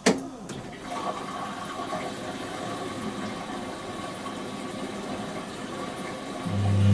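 Whirlpool AWG023 top-loading washing machine running: a sharp click at the start, then a steady mechanical running sound with some water noise, and a loud low mains hum that sets in near the end.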